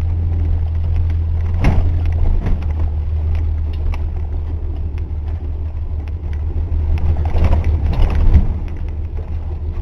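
1985 Chevy S-10 pickup's 2.8-litre V6 running at a steady low drone while the truck drives over a rough trail, with knocks and clunks from the truck jolting, the loudest about a second and a half in and again near the end.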